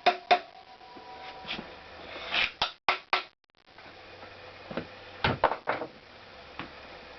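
Metal engine parts of a Honda CX500 being worked loose by hand: sharp clicks, then scrapes and knocks, with another cluster of knocks about five seconds in. The part is being pulled free against the pull of the dynamo's flywheel magnets.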